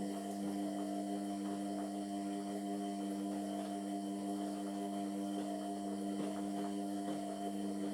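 Indesit MyTime washing machine's motor turning the drum through the wash phase: a steady pitched hum with light ticks from the tumbling load, running for about eight seconds before cutting off as the drum pauses to reverse.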